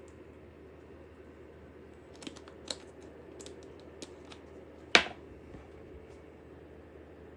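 A few light clicks and taps, then one sharp knock about five seconds in, over a faint steady hum.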